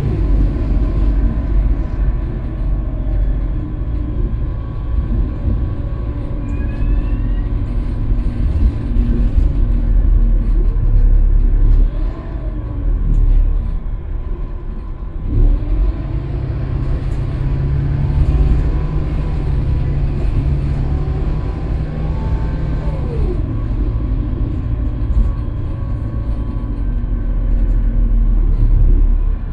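Scania K320UB city bus engine and drivetrain heard from inside the bus while under way, a steady low rumble. About twelve seconds in the engine note drops and quietens briefly, then picks up again as the bus pulls away, with another pitch change later on.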